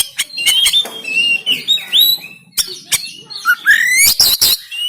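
Oriental magpie-robin (kacer) singing a fast, harsh run of sharp clicking notes broken by short rising and curving whistles.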